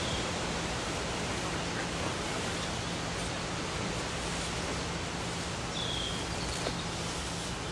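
Camper's air conditioner running: a steady rushing noise with a low hum. Two brief high chirps cut through, near the start and about six seconds in.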